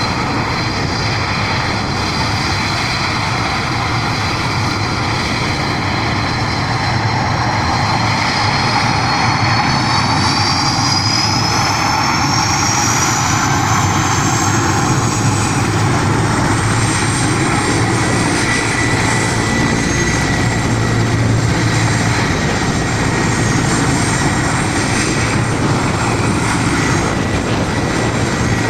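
Helicopter turbine engine running with a loud, steady rotor noise; its high whine rises in pitch about a third of the way in and then holds steady at the higher pitch as the engine winds up to takeoff power.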